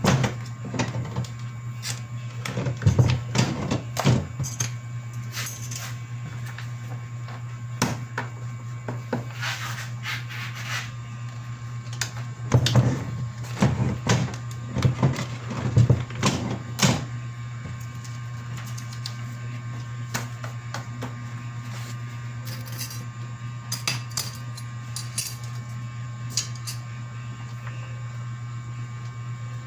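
Steady low machine hum with irregular clicks and knocks of handling over it, busiest in the first half and sparser later.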